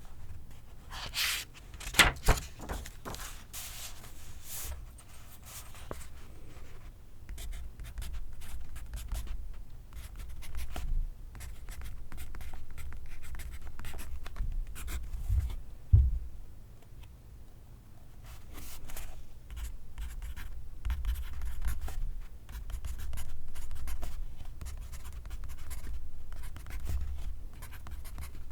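Pencil writing on paper: a run of quick scratching strokes, with a couple of sharp taps about two seconds in and a low knock about sixteen seconds in.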